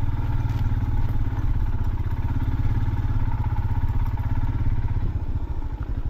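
Motorcycle engine running steadily under way with a fast, even low thump, easing off about five seconds in as the throttle closes.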